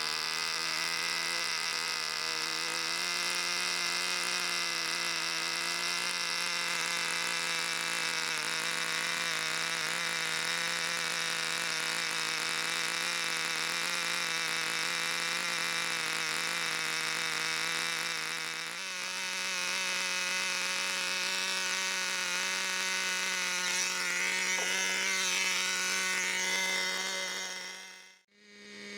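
Small glow-fuel two-stroke engine of a nitro RC car, an O.S. MAX CZ12, running at a steady high buzz; its pitch steps up a little about two-thirds of the way through, and the sound cuts off abruptly near the end.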